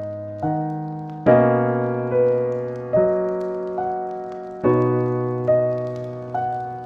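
Slow, gentle solo piano music: single notes and soft chords struck about once a second, each ringing and fading before the next.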